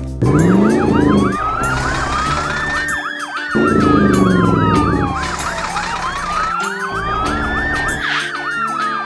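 Emergency-vehicle sirens from cartoon rescue vehicles: a fast yelp overlapping a slower wail that rises and falls. A low sound rises in pitch twice underneath, near the start and about three and a half seconds in.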